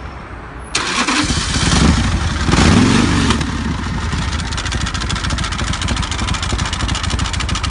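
2016 Rolling Thunder custom motorcycle's S&S 113 cubic-inch V-twin engine starting up, catching about a second in. It is revved twice, then settles into a steady, loud idle.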